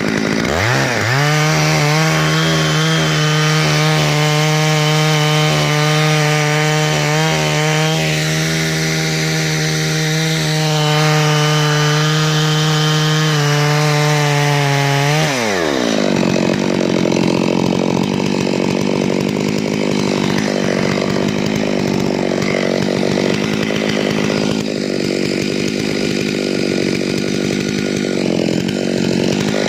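Zimani two-stroke petrol chainsaw running at high revs, its pitch steady for about fifteen seconds. Then the pitch dips sharply and recovers, and the saw runs on with a rougher, grainy sound, the chain cutting through wood under load. It revs up again at the end.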